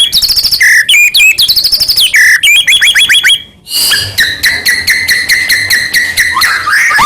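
White-rumped shama (murai batu) singing loudly in rapid runs of short, rising chirped notes. The song breaks off briefly about three and a half seconds in, then resumes with another fast series of repeated notes.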